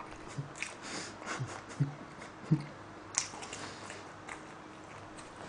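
A person chewing a mouthful of food close to the microphone: soft, irregular wet smacks and clicks of the mouth, with the clearest one about halfway through.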